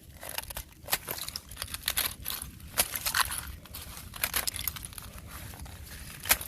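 Fresh ice crunching and crackling: an irregular run of sharp cracks and crinkly snaps, with louder clusters about a second in, around three seconds in, and near the end.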